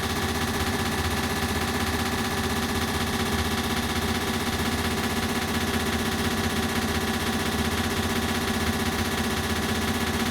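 Ceiling fan running with an added echo effect: a steady hum with several held tones and a rapid, even flutter.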